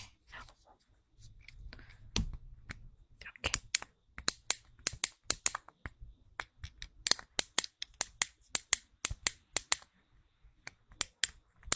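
Plastic fidget cube worked by hand: runs of sharp clicks from its buttons and switches, about four or five a second, with short pauses between the runs.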